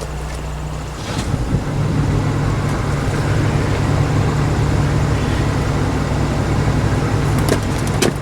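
An engine running steadily with a low hum that grows louder about a second in, with a couple of sharp metallic clicks near the end.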